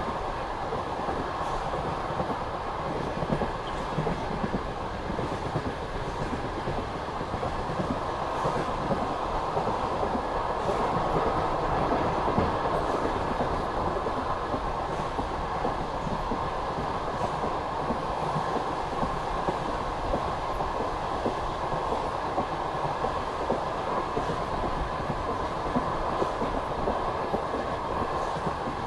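Passenger train running steadily along the line, its wheels rumbling and clattering on the rails, a little louder in the middle.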